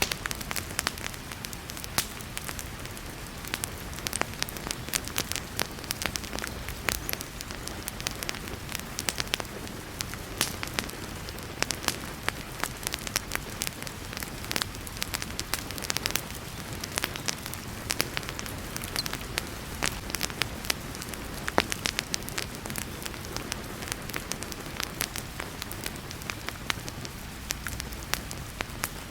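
Wood fire crackling and popping in a fireplace, with sharp irregular snaps, over the steady hiss of heavy rain.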